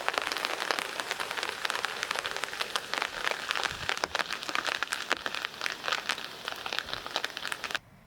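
Heavy rain: many close drops striking a hard surface in a dense patter. It starts abruptly and cuts off suddenly near the end.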